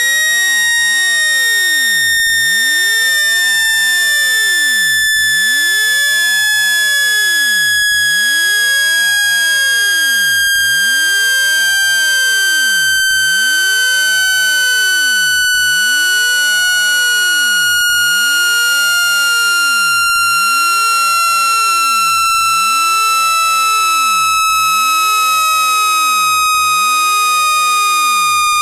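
Electronic speaker water-eject tone, a loud buzzy steady tone with overtones, gliding slowly down in pitch. It is played at full volume to vibrate water out of a phone speaker.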